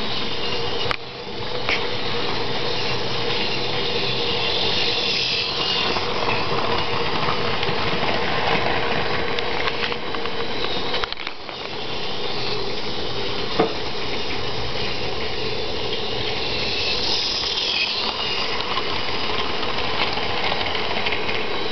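HO-scale model locomotive running along the track under load, pulling a string of cars: a steady motor hum and rolling wheel noise that dips briefly about a second in and again around eleven seconds in.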